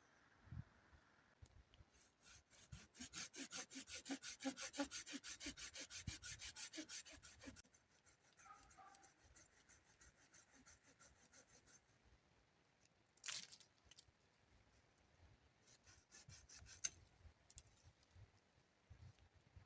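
Fast, evenly spaced rasping strokes of a tool working wood, about five a second for some five seconds, then one sharp scrape and a short run of strokes near the end.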